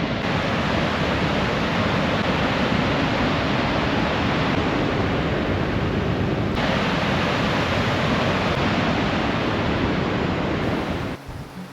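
Waterfall rushing in a loud, steady roar of falling water. It changes slightly at a cut about six and a half seconds in and stops abruptly near the end.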